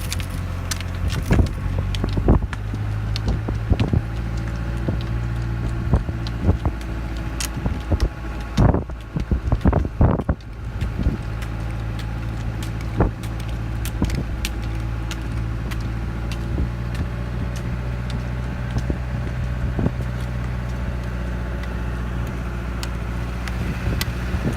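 A motor vehicle's engine running steadily at low speed, with scattered sharp clicks and knocks over it, a cluster of them about halfway through.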